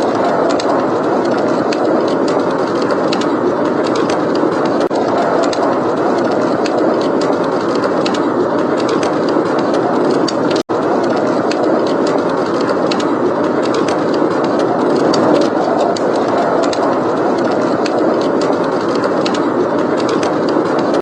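Steady blizzard wind with a wood fire crackling throughout in scattered small pops. The sound drops out for an instant about halfway through.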